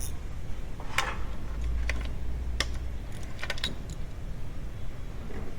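Metal hand tools clinking: about five short, sharp clicks spaced irregularly over a few seconds, over a steady low hum.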